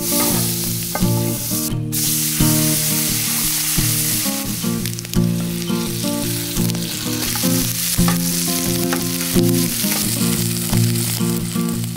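Butter, then diced potatoes and red peppers, sizzling in a frying pan: a steady frying hiss. Background music with held notes plays along with it.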